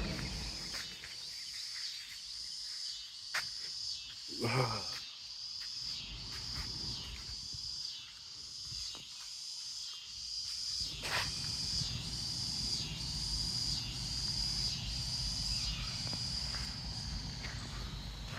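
Steady, high-pitched insect chorus with a regular pulse, with wind rumbling on the microphone at the start and again from about eleven seconds in, and a few sharp clicks in the middle.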